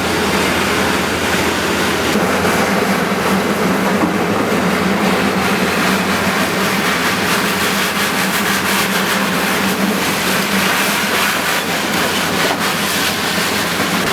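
Steady, loud mechanical rumble with a constant wash of noise.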